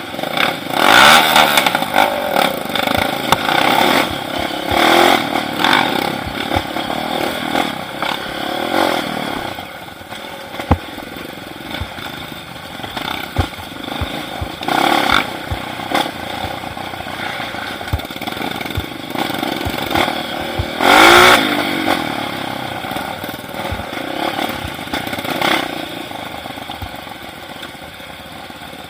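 Motorcycle engine revving in repeated surges, with clattering and knocking between them; the loudest surge comes about two-thirds of the way through.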